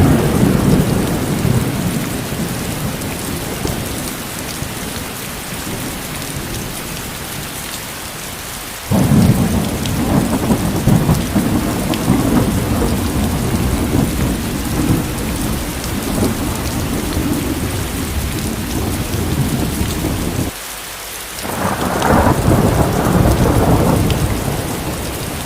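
Steady rain with rolling thunder. A deep rumble fades over the first few seconds, a long one starts suddenly about nine seconds in and stops suddenly some eleven seconds later, and a shorter one swells near the end.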